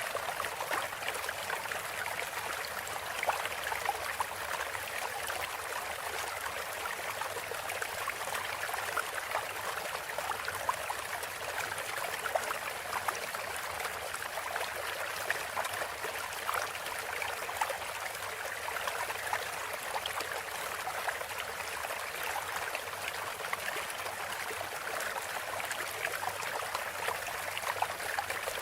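Steady running water of a small stream, trickling and gurgling without a break.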